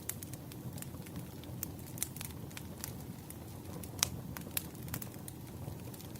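Wood fire crackling: irregular sharp pops and snaps over a steady low rumble, the loudest pop about four seconds in.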